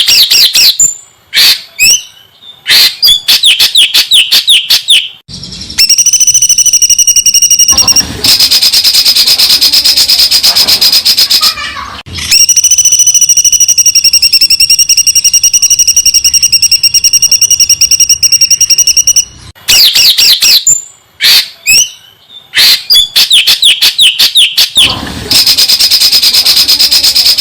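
Songbird song on a song-training recording: fast runs of high, rapid-fire notes alternate with long, steady high notes held for several seconds. The same sequence of phrases comes round again in the second half.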